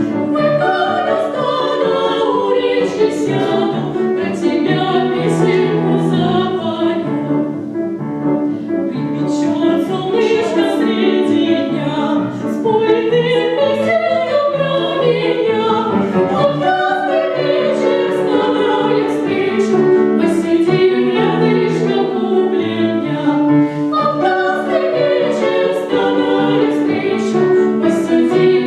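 Classical, opera-style singing with musical accompaniment, continuing without a break.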